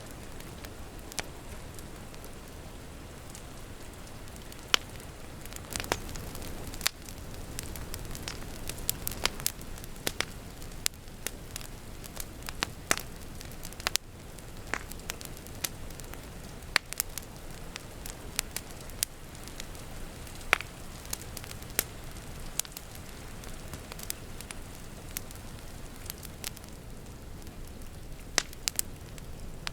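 Wood fire crackling, with frequent sharp, irregular pops over a steady low hiss, and rain falling outside in the background.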